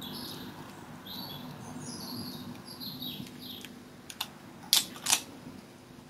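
A songbird singing high, warbling phrases over the first half, over a low steady hum. Near the end come two loud, sharp clicks.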